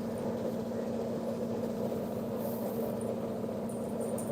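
A steady low hum with a constant tone, and a few faint high ticks in the second half.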